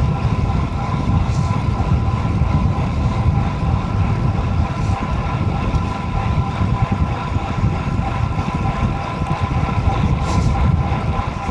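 Wind buffeting the microphone of a road cyclist riding fast in a sprint: a steady, heavy low rumble with a faint steady hum.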